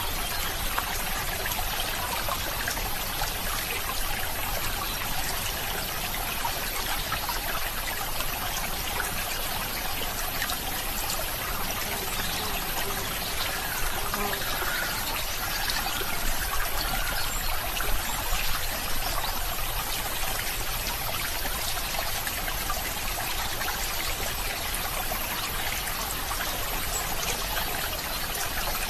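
Running water in a stream trickling and babbling steadily, with a few slightly louder splashes a little past the middle.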